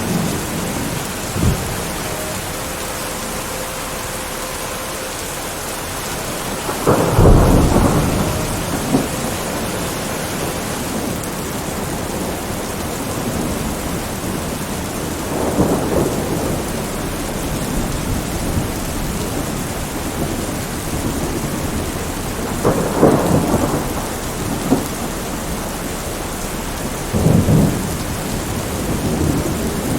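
Thunderstorm: steady rain with several rolls of thunder, the loudest about seven seconds in and others around the middle and near the end, plus a short crack early.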